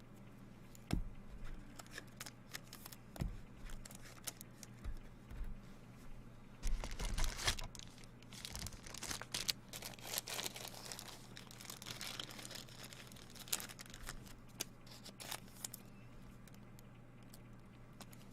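Baseball card packs' wrappers being torn open and crinkled, with cards handled, in a run of short crackles and rustles that is busiest midway. A steady low electrical hum sits underneath.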